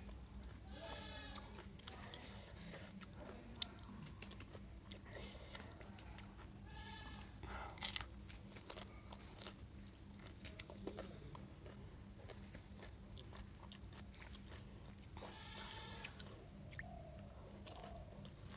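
Close-up crunching and chewing of crisp pani puri shells filled with spicy water, with many small crackles and wet mouth sounds. Three short wavering calls come in, about one, seven and fifteen seconds in.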